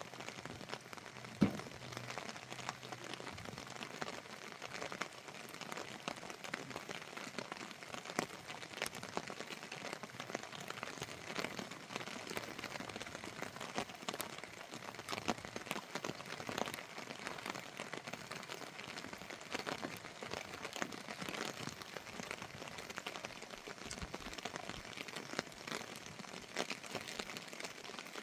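Rain pattering steadily in a dense run of small drop ticks, with one sharper click about a second and a half in.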